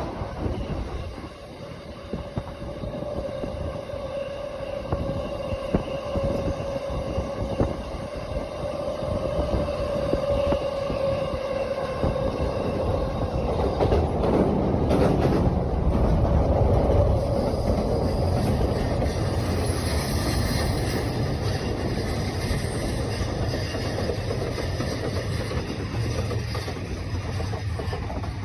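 Shinkansen bullet train running on the rails. A steady whine lasts for about the first twelve seconds, then the rumble and rushing of the train grow louder and stay steady to the end.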